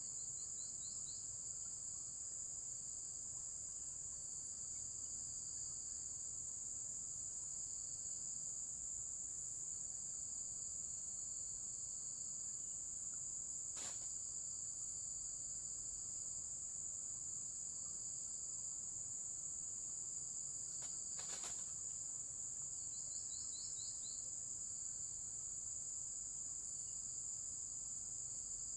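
A steady high-pitched insect chorus, with short trills now and then. A sharp click about halfway through and a double click a little later.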